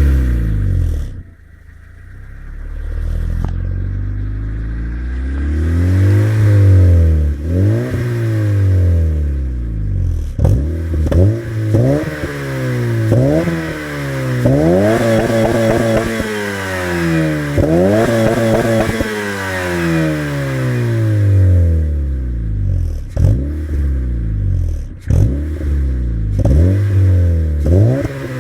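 Honda Civic FD1's four-cylinder engine, breathing through a Kent Works custom exhaust, being revved over and over: the note climbs and falls back again and again, slower swells at first, then quicker, sharper blips.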